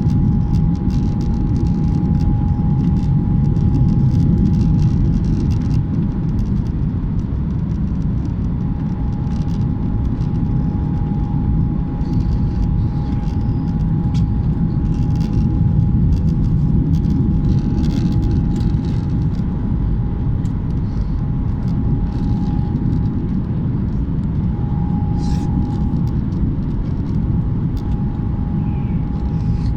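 Airliner cabin noise: a steady low rumble with a constant whining tone running through it.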